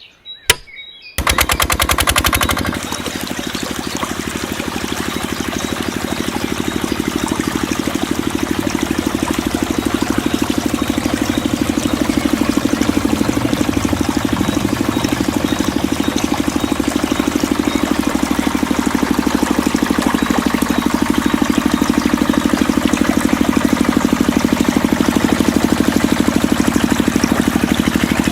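Small engine starting up suddenly about a second in, then running steadily with a fast, even beat of firing pulses.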